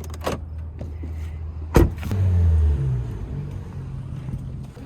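Car engine running steadily, with one sharp knock about two seconds in, then a brief rise in the engine sound before it settles back.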